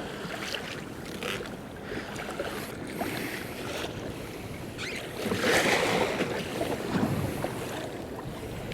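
Wind and choppy sea water washing and slapping around a kayak, with a louder surge of water about five and a half seconds in.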